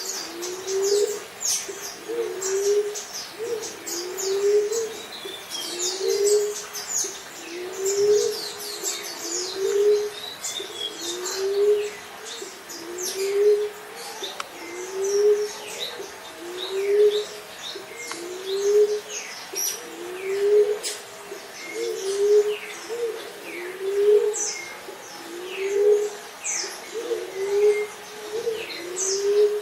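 Emerald dove giving its song: a low, soft coo repeated steadily about every second and a third, each note swelling up and falling away. Small birds chirp high and briefly in the background.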